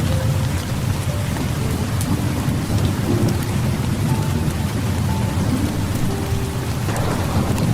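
Steady heavy rain falling, with a continuous low rumble of thunder underneath.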